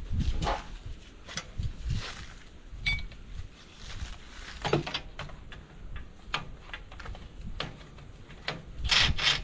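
Hand tools working nuts and bolts on a tractor's cultivator mounts: a string of irregular metal clicks and clinks from a socket wrench. There is a louder scraping clatter about five seconds in and another near the end.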